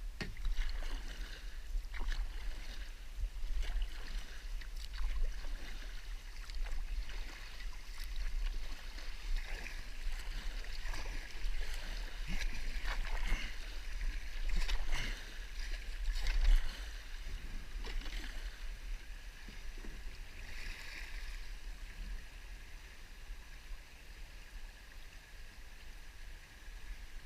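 Kayak paddle strokes splashing irregularly in a creek, over a steady hiss of water running through shallow, swift riffles. The splashing is busiest and loudest through the first two-thirds, then eases off.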